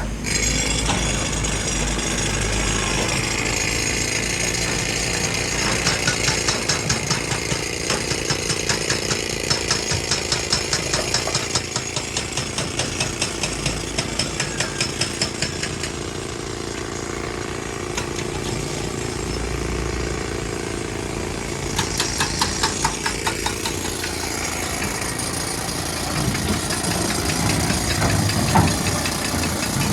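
Heavy quarry machinery running steadily, with an engine drone under it. From about six seconds in it breaks into about ten seconds of rapid, regular pounding, and there is a shorter bout a little past twenty seconds.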